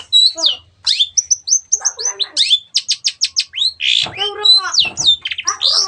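Long-tailed shrike (cendet) singing a fast, varied song: sharp whistled sweeps and quick runs of repeated high notes, broken by harsher chattering phrases about four seconds in and near the end.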